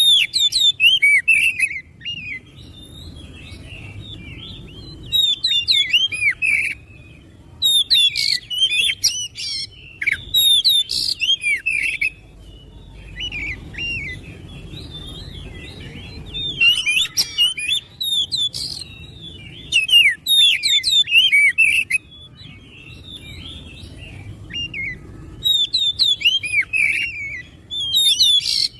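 Oriental magpie-robin (kacer) singing in bursts of fast, high whistles and chirps, each bout lasting one to four seconds with pauses of a few seconds between them.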